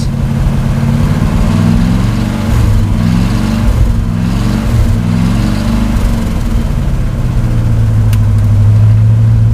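The 283 V8 of a 1968 Chevy C60 dump truck running cold, shortly after a hard cold start. Its speed wavers up and down for the first few seconds, then settles to a steady, slightly louder run near the end.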